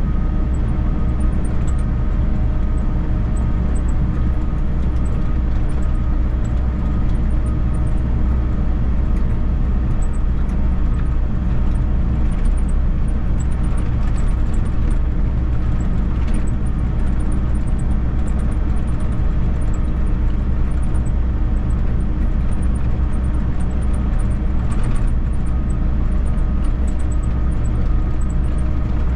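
Volvo EC60E mini excavator's diesel engine running steadily under load while it works, a constant low engine drone with a steady pitch.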